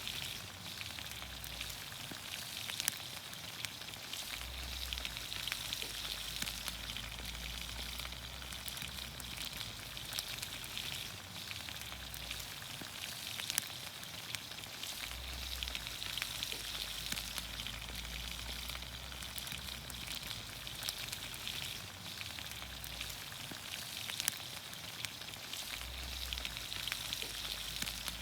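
Vegetables in olive oil sizzling in a pan over a campfire: a steady hiss with many small pops and crackles throughout.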